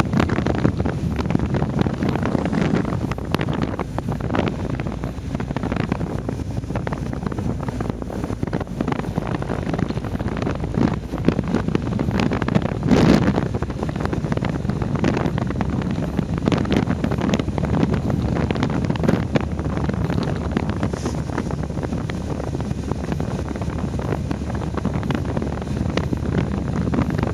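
Heavy wind buffeting the microphone in gusts, a dense rumbling rush with one stronger blast about halfway through.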